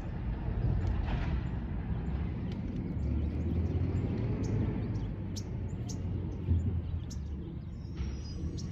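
Small birds chirping in short high notes, more often in the second half, over a steady low rumble.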